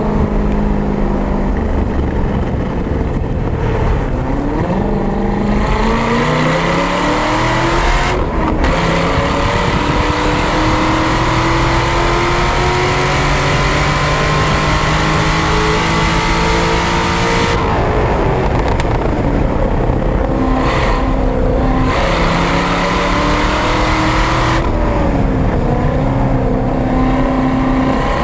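A 2013 C6 Corvette Z06's 7.0 L LS7 V8 at full throttle on track, heard through its Corsa X-pipe and catback exhaust from a microphone on the rear bumper, with wind and road noise under it. The engine note climbs through the revs with an upshift about eight seconds in and a long pull after it. About two thirds of the way through the pitch drops sharply as the driver lifts and downshifts, then it climbs again near the end.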